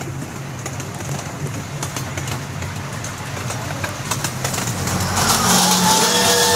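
Amusement-park ride train running: a steady low engine hum with scattered clicks, growing louder about five seconds in. Soon after, the wheels begin to squeal in several high, steady tones.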